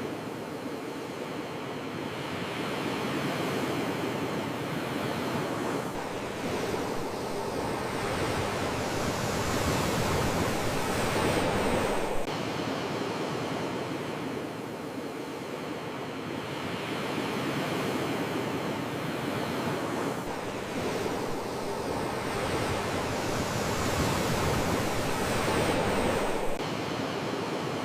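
Sea waves washing onto the shore: a steady rush that swells slowly to a peak and then drops away suddenly, twice.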